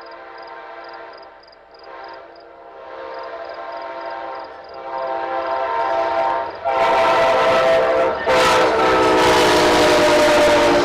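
Approaching locomotive's multi-chime air horn blowing long blasts for a grade crossing, getting louder, with a crossing bell dinging about four times a second early on. Near the end the train arrives at the crossing and its loud rush of passing joins the horn.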